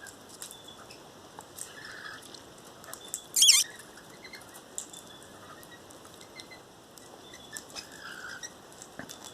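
Parrots feeding on sunflower seeds: a scatter of small sharp clicks and taps from cracking seed husks, with one loud harsh screech a little over three seconds in.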